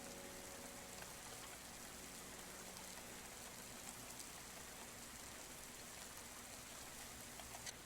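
Steady rain heard from inside a house: an even, soft hiss with scattered ticks of individual drops. A low sustained piano tone dies away over the first three seconds.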